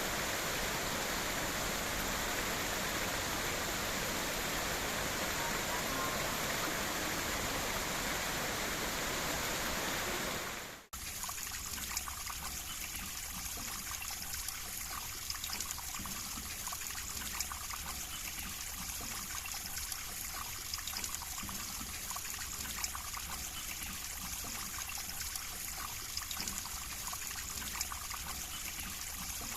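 River water flowing over rocks: a steady full rush for about the first ten seconds, then, after a sudden cut, a lighter babbling trickle with many small splashes.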